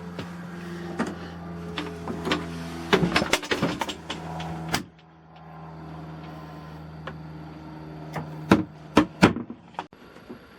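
A steady low mechanical hum with a few fixed pitches. Over it come two clusters of sharp knocks and clunks, one about three seconds in and another near the end.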